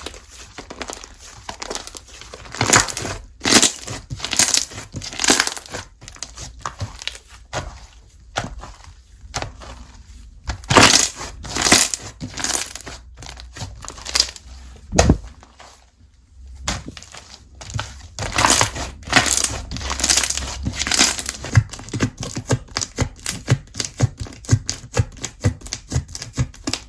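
Slime being squeezed and kneaded by hand, giving irregular crackling pops and crunches, sometimes in quick runs of snaps.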